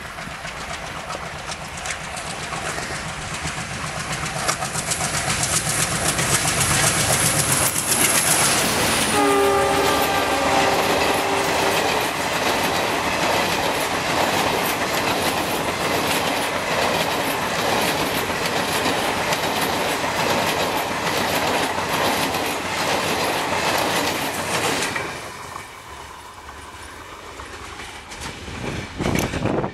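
Indian Railways diesel-hauled train passing at speed: the noise builds as it approaches, the locomotive sounds its horn for about three seconds, then the coaches clatter past over the rail joints until the sound drops off sharply about 25 seconds in as the last coach clears.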